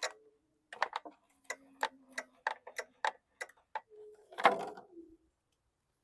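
Irregular sharp metallic clicks, roughly three a second, from a 13 mm wrench working a nut loose on a lawn mower's fuel system, with a louder clattering knock about four and a half seconds in.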